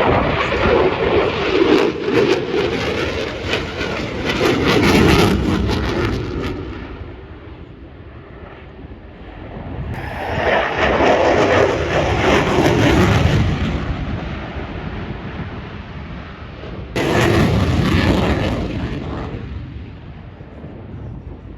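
F-22 Raptor fighter jet flying past, its twin-engine jet roar swelling and fading in three waves, with the sound jumping in abruptly about ten and seventeen seconds in.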